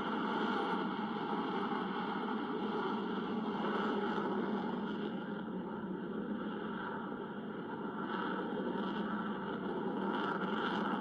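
Jet noise from an F-22 Raptor's two F119 turbofan engines during its flying display: a steady, rushing rumble that eases a little midway and swells again near the end.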